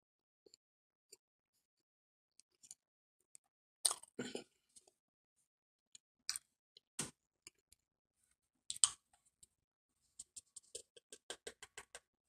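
Mouth sounds of chewing a mouthful of dry cornstarch powder: scattered soft clicks, with a few louder ones in the middle and a quick run of ticks near the end.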